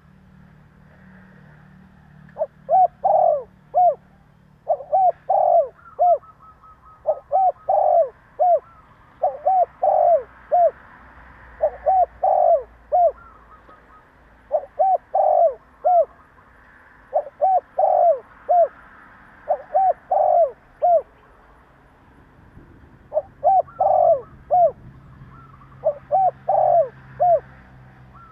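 Spotted dove cooing: a short phrase of three or four coo notes repeated about every two seconds, with a longer pause of a few seconds past the middle.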